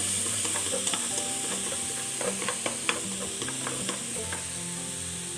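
Minced garlic, shallots and lemongrass sizzling in hot oil in a metal pot as they are stirred with wooden chopsticks, frying until golden. A few light clicks of the chopsticks against the pot come around the middle.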